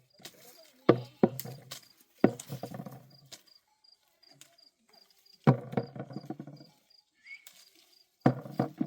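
Several sudden knocks in clusters, each ringing briefly. Behind them a high-pitched insect chirps steadily, about four times a second.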